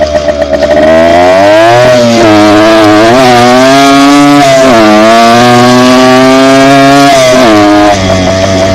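Dirt bike engine running hard under throttle, its pitch dipping sharply and climbing back about four times as the revs change.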